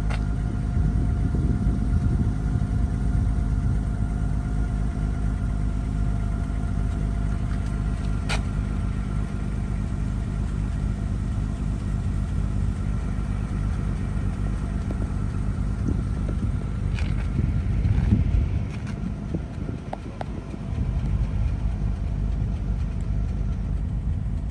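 Car engine and road rumble from a moving car, steady and low, with a faint steady whine above it and a couple of light clicks. The rumble drops briefly about twenty seconds in.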